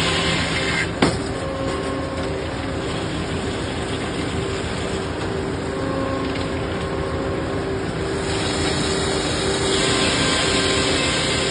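Wood-cutting machinery running steadily on a large log, a continuous mechanical drone with a sharp knock about a second in.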